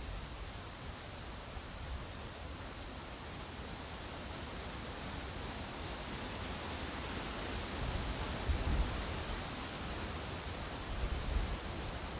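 Wind blowing steadily with a soft hiss, with low gusts buffeting the microphone about two-thirds of the way through and again near the end. A cricket chirps faintly and high in an even, repeating pulse.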